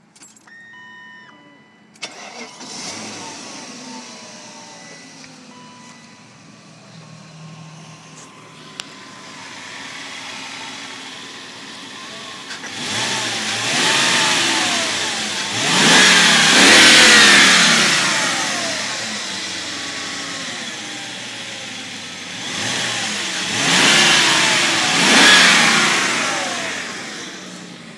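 BMW 740iL's V8 engine starting at operating temperature about two seconds in and settling to idle, then revved up and down in two spells, the first around the middle and the second near the end, a few short steady tones coming before the start.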